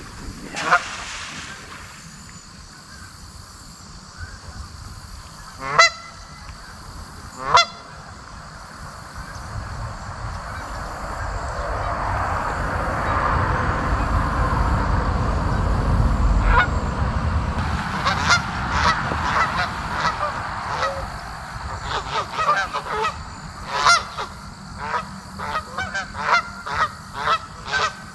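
Geese honking: a few single honks in the first eight seconds, then, after a swelling rush of noise in the middle, honks coming faster and faster toward the end.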